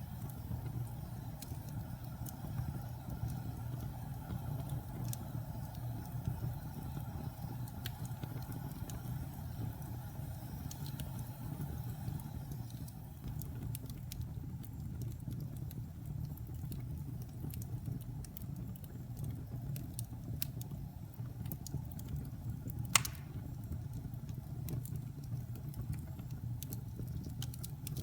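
Wood fire burning in a fireplace: a steady low rumble with scattered small crackles, and one sharp pop about three-quarters of the way through.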